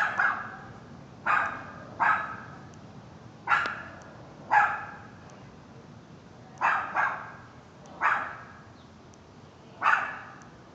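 A dog barking, about ten short barks, some in quick pairs, spaced a second or two apart.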